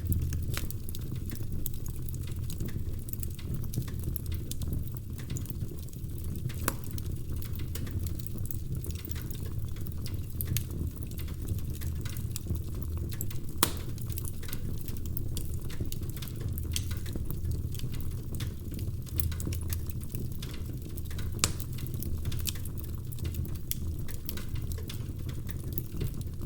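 Wood fire crackling in a fireplace: a steady low sound of burning logs with frequent irregular pops and snaps, a few of them louder.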